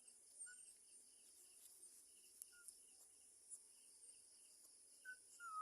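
Near silence with faint, evenly repeating cricket chirping. Near the end a dog starts a single high, held whine.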